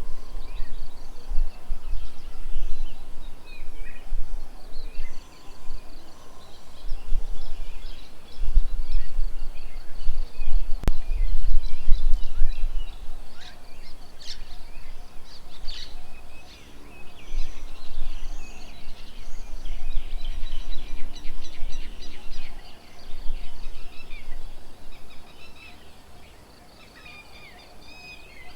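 Several small birds chirping and calling, with gusts of wind buffeting the microphone that come and go; a single sharp click about eleven seconds in.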